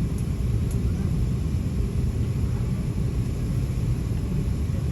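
Steady low rumble of cabin noise inside an Airbus A380 on the ground before takeoff, with two faint ticks in the first second.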